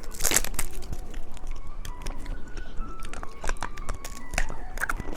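Irregular crinkling and clicking of candy and its packaging being handled close to the microphone, with a louder crinkle about a third of a second in. Faint background music sits underneath.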